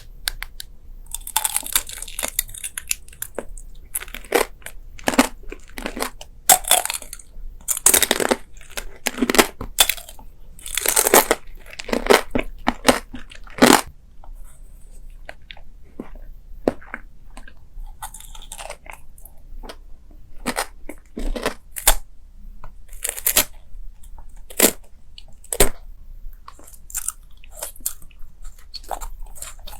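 Close-miked eating sounds: crunchy bites and chewing in irregular bursts, busy in the first half and sparser later on.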